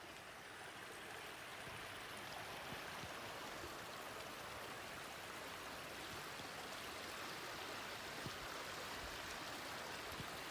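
Steady rush of running water, like a stream, with a faint tick or two.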